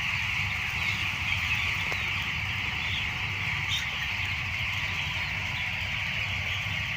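A large flock of chickens making a steady, unbroken din of chirping and clucking, over a low steady hum.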